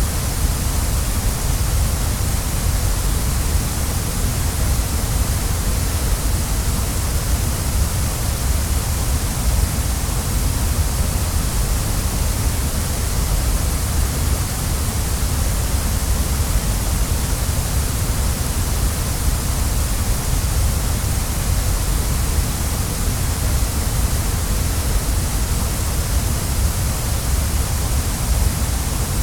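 Waterfall: a steady, unbroken rush of falling water, with a deep rumble underneath and a bright hiss on top.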